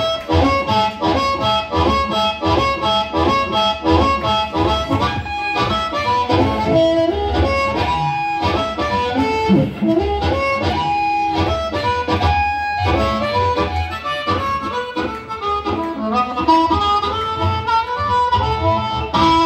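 Live band music with a harmonica lead over guitar, a fast run of notes that stops sharply at the end of the song.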